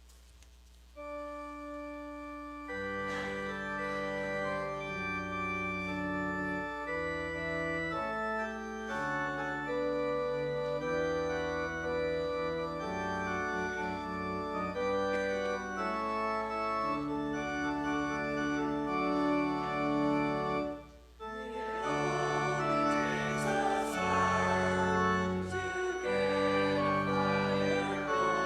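Organ playing sustained chords. It breaks off briefly about 21 seconds in, then comes back fuller.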